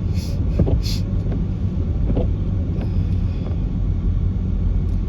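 Car driving on a wet road with a window down: a steady low rumble of engine, tyres and wind, with two brief hisses in the first second.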